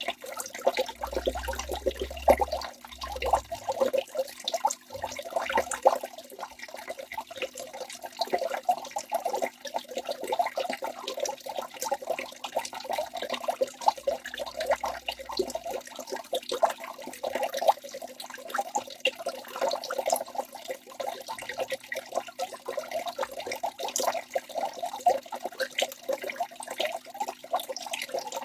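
Waterfall water splashing and pouring steadily, a dense, continuous patter of small splashes.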